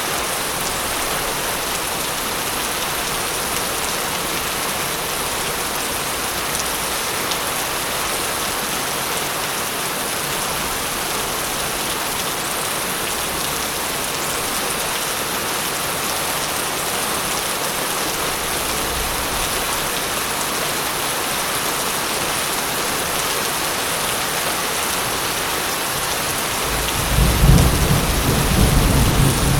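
Steady heavy rain falling, with a low rumble of thunder building near the end.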